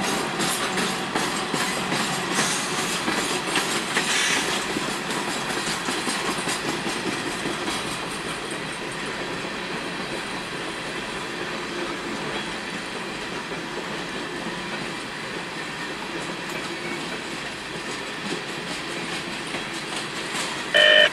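Empty coal hopper cars rolling past, their steel wheels clicking over the rail joints over a steady rolling rumble that slowly fades. A loud steady tone cuts in right at the end.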